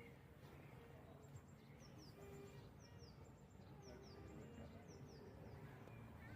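Faint birdsong: a small bird repeating short, falling chirps, often in pairs, over a faint steady low hum.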